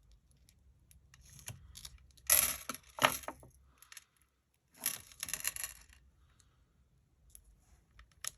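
Paper and cardstock pieces being handled and pressed into place: two bursts of rustling and scraping, about two seconds in and again near five seconds, with small clicks between.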